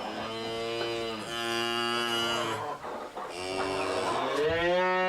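Cows mooing: two long, drawn-out moos, the second starting about three seconds in.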